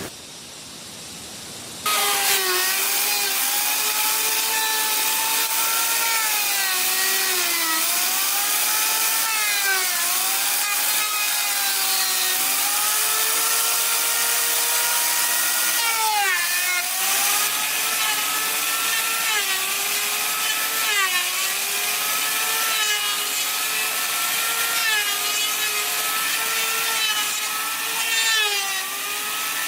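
Power saw cutting wood, its motor pitch dipping and recovering over and over as the blade bites under load. It starts abruptly about two seconds in.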